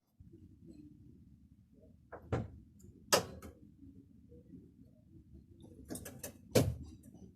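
A few sharp knocks and clicks in three short clusters over a low, steady background hum; the loudest come a little after three seconds in and again near the end.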